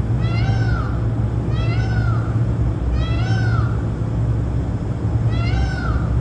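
An animal calling four times, each call a short cry that rises and then falls in pitch, over a steady low hum.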